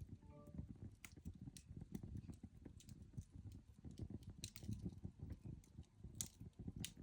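Coal fire burning with scattered sharp crackles and pops, the strongest about six seconds in and again near the end, over a low, uneven rumble.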